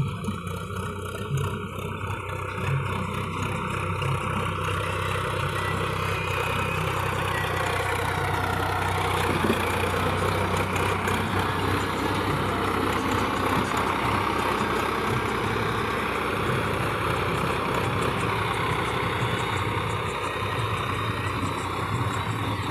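Swaraj 855 tractor's three-cylinder diesel engine running steadily, growing louder a few seconds in and easing slightly near the end.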